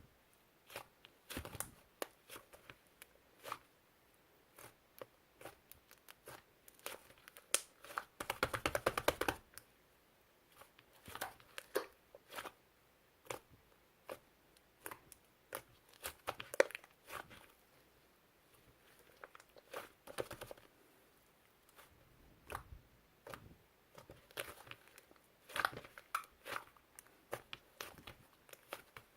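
Slime being squeezed and stretched by hand, giving scattered sharp crackles and pops. About eight seconds in comes a dense run of rapid clicks.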